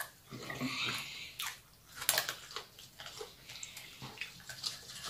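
Close-up eating sounds: wet chewing, lip smacks and small mouth clicks, irregular and close together, from people eating shredded green mango salad.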